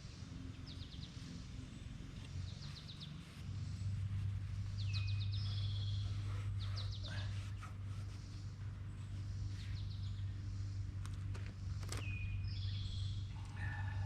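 Birds chirping in short repeated trills, over a steady low hum that grows louder about three and a half seconds in.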